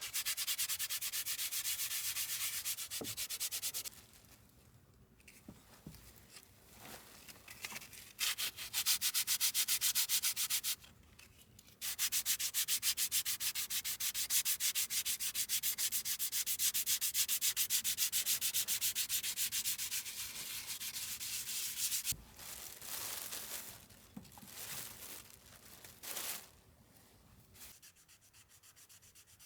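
Sandpaper rubbing on wood in quick, rapid back-and-forth strokes, in several spells separated by short pauses.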